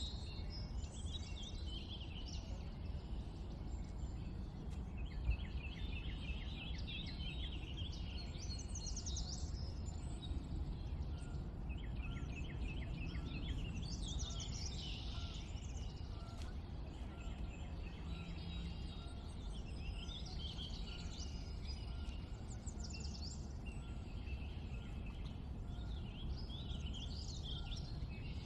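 Several songbirds chirping and singing, with rapid repeated trills among the calls, over a steady low background rumble.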